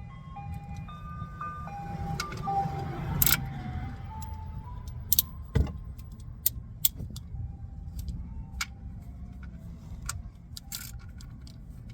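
Sharp metallic clinks of hand tools and the drain plug during an oil change, over a low steady rumble. A simple stepwise tune plays faintly in the background.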